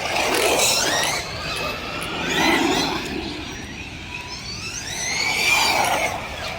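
Electric RC car motor whining up and down in pitch as the throttle is worked in three surges, below full throttle.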